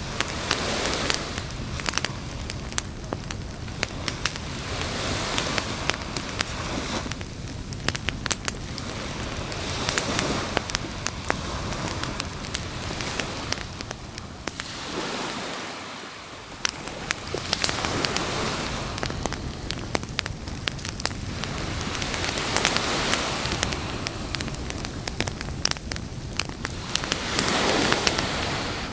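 Campfire crackling and popping in a steady stream of sharp snaps, over a wash of surf that swells and ebbs every few seconds.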